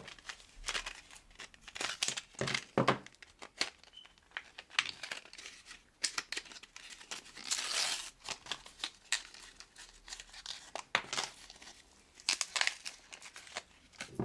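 Crinkling and tearing as a super glue packet is opened by hand: a run of sharp crackles, with a longer tearing rasp about halfway through.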